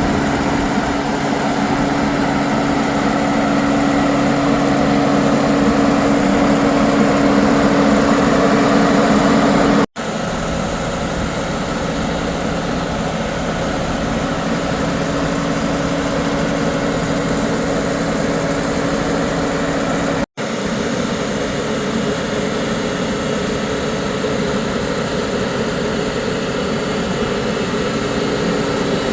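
Diesel engine of a New Holland T7.260A tractor (6.7-litre) running steadily. The sound breaks off for an instant twice, about ten and twenty seconds in, and the engine tone shifts slightly after the first break.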